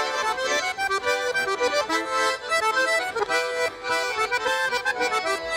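Accordion playing a lively instrumental break in a Russian folk song: quick rhythmic chords and melody notes, with no singing.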